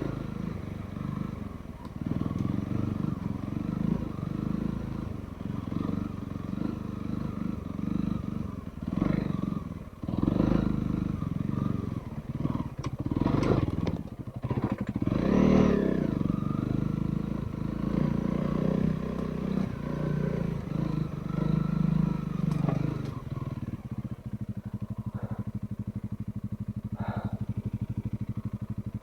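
Trail motorcycle engine running at low, changing revs, with clattering knocks from the bike over rough ground in the middle. About 24 seconds in it settles to a steady idle.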